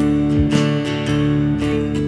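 Instrumental music without singing: strummed acoustic guitar chords, with a couple of strokes about half a second in and near the end.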